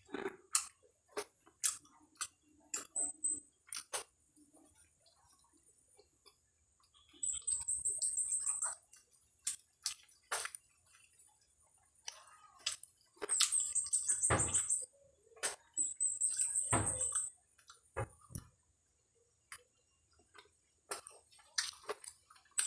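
Crisp fried cempedak skin being bitten and chewed: scattered sharp crunches and clicks. Four times, a burst of fast, high chirping lasting a second or two rises above it; this chirping is louder than the chewing.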